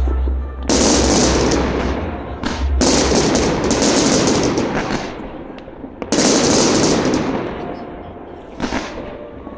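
Fireworks: three long bursts of dense, rapid crackling, starting about a second in, about three seconds in and about six seconds in, each dying away over a couple of seconds.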